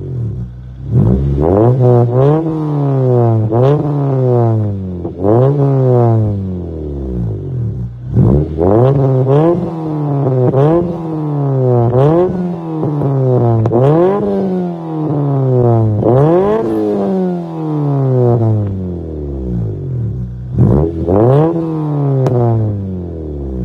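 Honda B20 four-cylinder engine in an Acura Integra, blipped repeatedly through its exhaust: about a dozen free revs, each climbing quickly and dropping back to idle.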